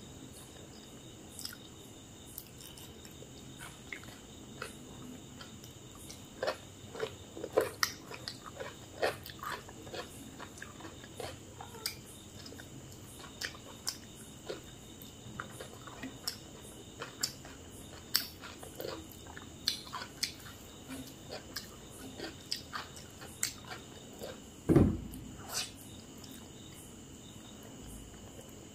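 Close-miked eating sounds: wet chewing with irregular soft clicks and mouth smacks as a person eats sago khichuri and fried vegetables, with one louder dull thump near the end.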